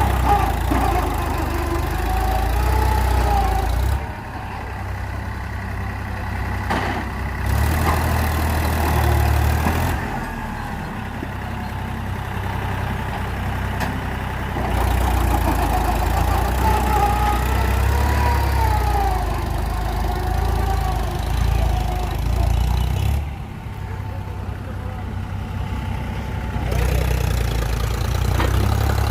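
Diesel tractor engines running hard under load during a trolley pulling contest, their low sound swelling and easing by turns.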